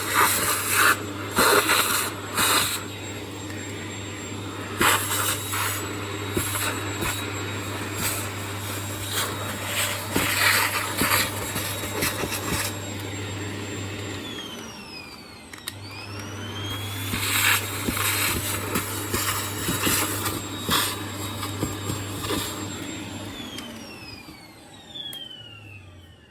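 Vacuum cleaner running, with scattered knocks. It is switched off about 14 s in, its whine falling away, and is back up to speed about a second and a half later. Near the end it is switched off again and winds down.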